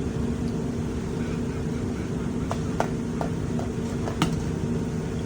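A steady low motor hum throughout, with a handful of sharp clicks or taps in the middle seconds, the loudest just past four seconds in.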